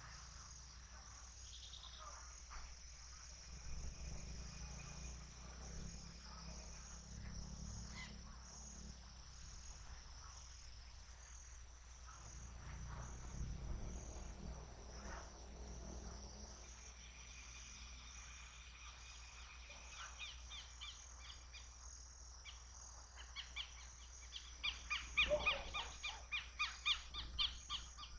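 Outdoor nature soundscape: insects keep up a steady high-pitched drone, with faint scattered bird calls over a low rumble. Near the end a bird starts a loud run of quick repeated chirps, two or three a second.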